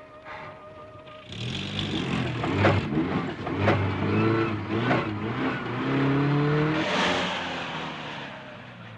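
Classic Mini's small four-cylinder engine revving as the car pulls away, its pitch climbing in several rising surges in a row. A few brief knocks come during the surges, and it fades near the end.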